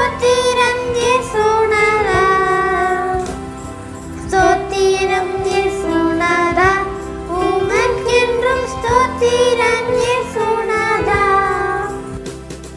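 A song: a sung melody over instrumental backing, fading out near the end.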